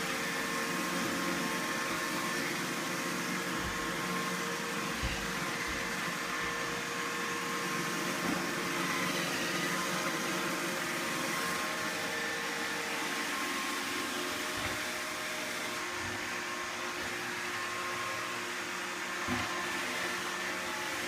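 Roomba robot vacuum running steadily, its motor and brushes giving a constant whirring hum with a few steady tones. A few soft low thumps are heard now and then.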